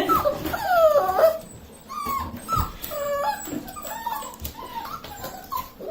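Young puppies whimpering and yelping, a string of short high whines one after another, louder for about the first second and then softer.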